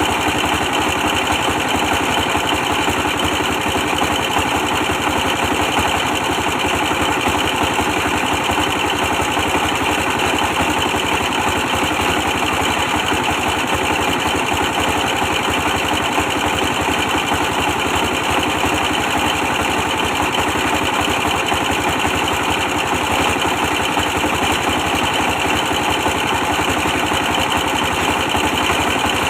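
24 hp stationary diesel engine running steadily, powering a brick press machine, with a fast even firing beat.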